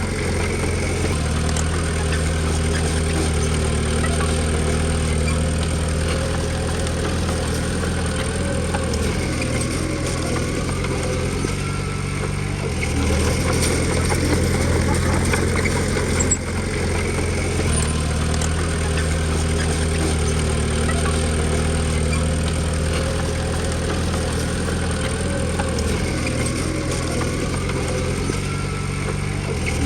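Diesel engine of a Komatsu D20P small crawler bulldozer running steadily. Its low hum shifts pitch up and down several times as the engine speed changes.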